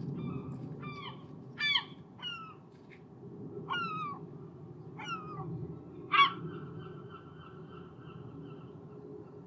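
Herring gulls calling: about six short, downward-sliding cries, the loudest about two seconds in and again about six seconds in, then a steady held tone, over a steady low background rush.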